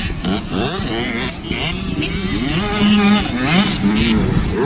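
A 65cc two-stroke motocross bike engine revving hard on the throttle, its pitch climbing and dropping back several times as it rises through the revs and eases off.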